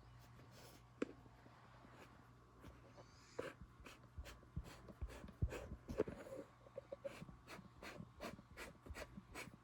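Light clicks and taps of toy trucks being handled and moved, scattered and more frequent from about three seconds in, over a faint steady hum.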